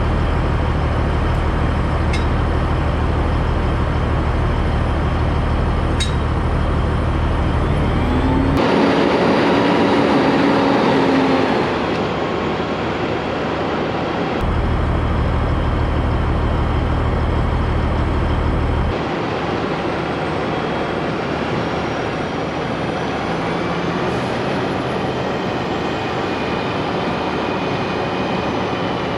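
Heavy diesel machinery running steadily, rising in pitch as it works for a few seconds about a third of the way in, with sudden shifts in the sound a few times and a couple of sharp clicks early on.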